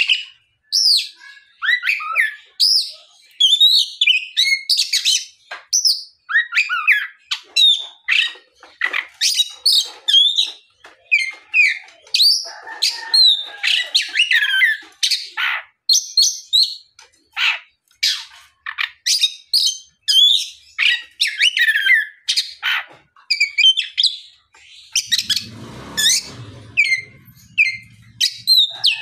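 Oriental magpie-robin (kacer) in full, continuous song: a dense run of varied whistled phrases mixed with harsher chattering notes, broken by short pauses. About 25 seconds in, a low rumble joins underneath.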